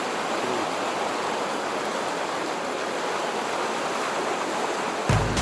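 Mountain stream water rushing over rocks, a steady even rush. Background music with a low beat cuts in near the end.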